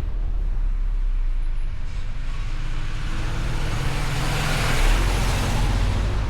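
Road and engine rumble from a Mustang convertible driving, with a traffic vehicle passing close: its rush swells to a peak about five seconds in and then fades.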